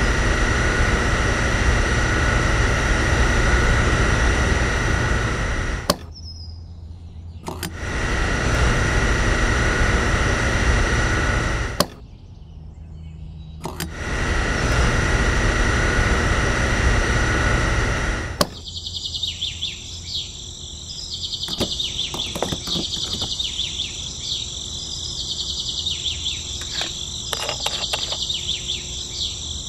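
Small electric pump motor of a homemade miniature fuel dispenser running steadily in three stretches of several seconds with short pauses, pumping liquid through the hose into toy barrels. It then stops about two-thirds of the way in, leaving birds and insects chirping and a few light clicks.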